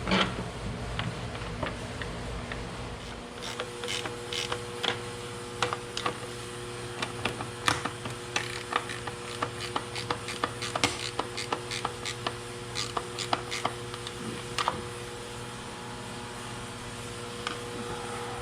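Hand ratchet wrench clicking in short irregular bursts while bolts are tightened down on the engine's intake air horn, over a steady hum.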